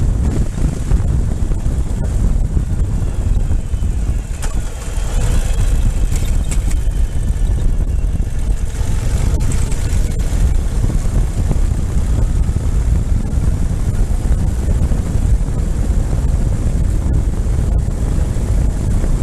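Ural motorcycle running at road speed, with heavy wind buffeting the microphone and a faint engine whine rising and falling a few seconds in.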